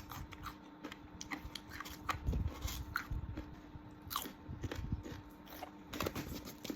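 A person biting and chewing crisp young green ambarella fruit, with irregular crunches, several a second.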